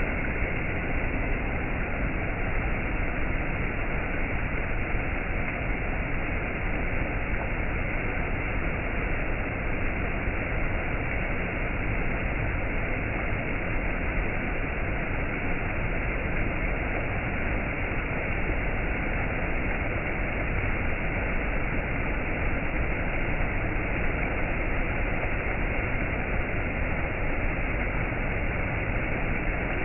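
Waterfall rushing steadily, an even wash of water noise with no breaks or changes.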